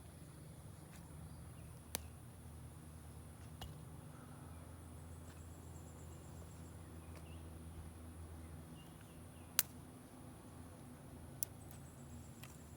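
Outdoor background with faint high insect trills, broken by a few sharp isolated snaps, the loudest about two-thirds of the way through.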